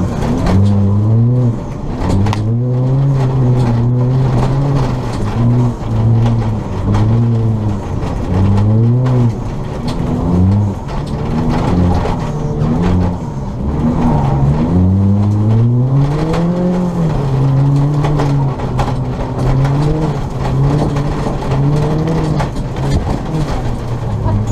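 Ford Fiesta ST rally car's turbocharged four-cylinder engine driven hard, revving up and dropping back over and over as it accelerates, lifts and shifts.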